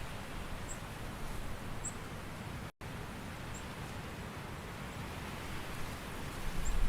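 Steady hiss of autumn forest ambience, rustling like rain or wind in leaves, with a few faint high chirps. The sound cuts out completely for an instant a little under three seconds in, and a low rumble swells near the end.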